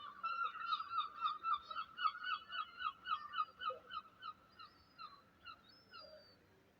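A rapid series of short pitched animal calls, about four or five a second, slowing and fading away toward the end.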